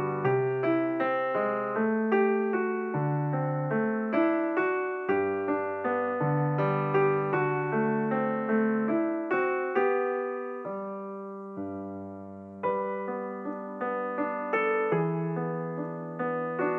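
Background piano music: a slow run of struck notes and chords, with one chord left to ring and fade about ten seconds in before the playing picks up again.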